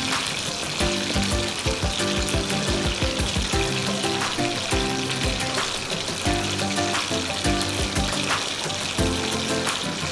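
Hot oil sizzling steadily as food fries, under background music with a steady beat.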